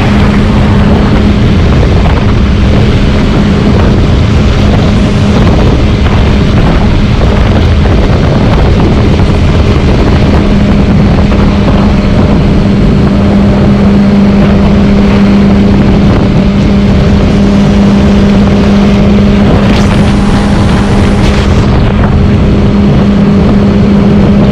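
Motorcycle engine running at a steady speed while riding, with heavy wind rumble on the action camera's microphone. A brief rushing hiss rises and falls about twenty seconds in.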